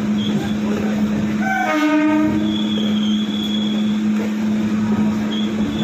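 Electric local train (EMU) running with a steady low hum and intermittent high-pitched wheel squeal, with a short train horn blast about a second and a half in.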